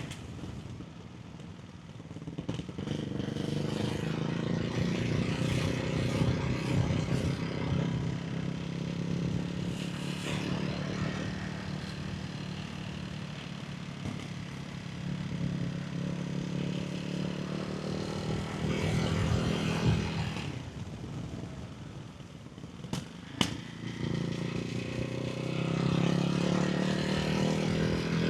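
Ducati Hypermotard 698 Mono's 659 cc single-cylinder engine running through a baffled Termignoni exhaust while riding, with the pitch rising as it accelerates early on and again near the end. The throttle closes on overrun in between, dropping the engine note, with a few sharp cracks from the exhaust about 23 seconds in.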